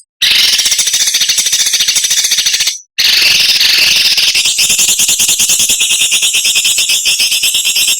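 Songbird giving harsh, sharp, very rapid scratchy trills ('besetan'), high-pitched and continuous. The song breaks off for a moment just before three seconds in. It resumes, and at about four and a half seconds it changes to a different rattling trill.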